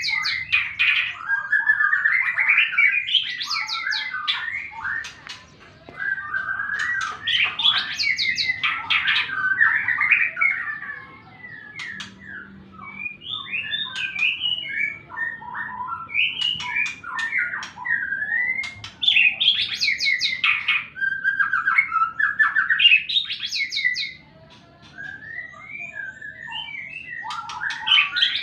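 White-rumped shama (murai batu) singing a long, varied run of loud whistled and chattering phrases with short pauses between them, the full song of a bird just out of its moult and challenging a rival.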